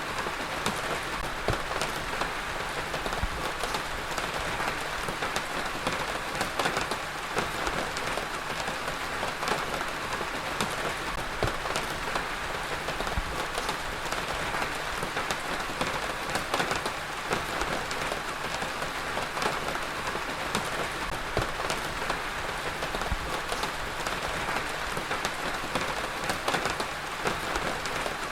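Heavy rain falling steadily, a dense even hiss made of many individual drops striking a surface.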